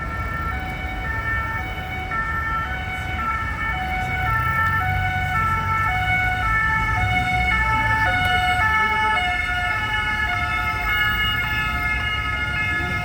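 Several French police and gendarmerie two-tone sirens sound at once. Each alternates between a high and a low note, out of step with the others, over the low rumble of vehicle engines. The whole grows louder about four seconds in.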